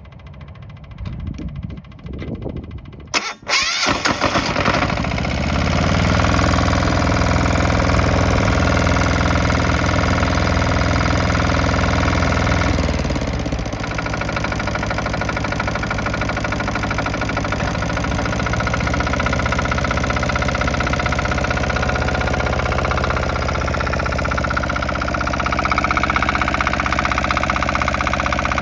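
Komatsu PC03 mini excavator's engine turning over on the starter for about three seconds, then catching. It runs at higher revs before settling to a lower, steady idle about halfway through.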